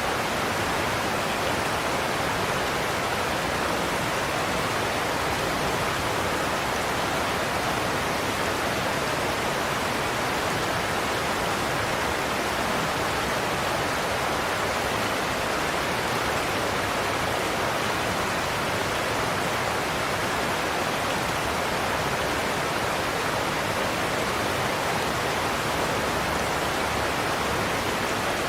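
Godafoss waterfall: a large volume of water crashing over a broad cliff drop in a steady, unbroken roar with no separate splashes or changes.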